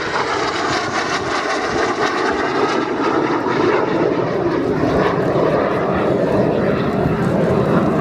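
Fixed-wing aircraft making a fast pass, its engine noise loud and sustained.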